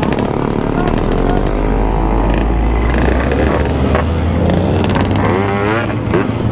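Two-stroke motorcycle engines running together at varying revs, with the pitch rising and falling in the second half.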